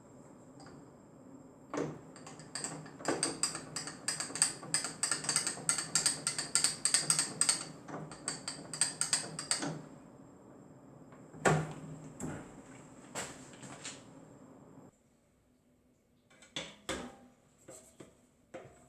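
Metal workshop tool sounds: a rapid run of sharp metallic clicks and taps over a steady machine hum, then a few single knocks. The hum cuts off suddenly near the end.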